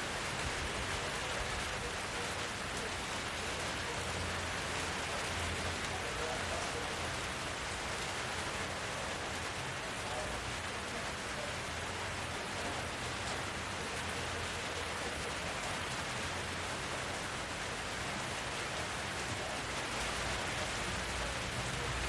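Steady rain falling, an even unbroken hiss, with a faint low rumble that swells now and then.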